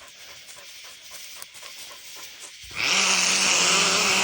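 A cur hunting dog lets out one long, raspy bay about three seconds in, after a stretch of faint background hiss.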